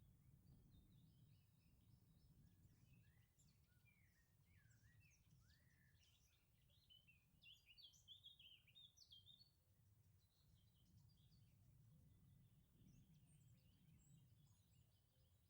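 Faint outdoor birdsong: several birds giving short chirps and quick gliding notes, busiest in the middle, over a steady low rumble.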